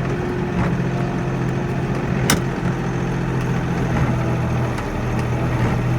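Kioti NX4510 compact tractor's diesel engine running steadily. There is one sharp click about two seconds in.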